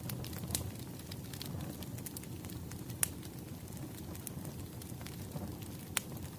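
Wood fire crackling: a steady low rumble with scattered sharp pops, the loudest about three seconds in and again near the end.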